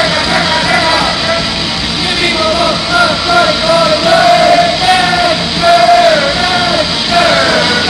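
Loud live rock band playing, with a singer holding long, wavering sung notes over the band.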